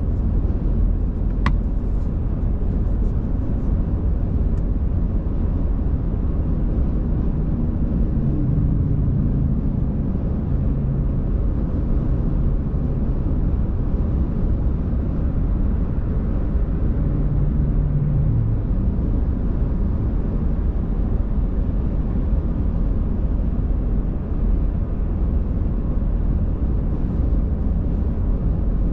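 A car driving along a road: a steady, low rumble of tyres and engine.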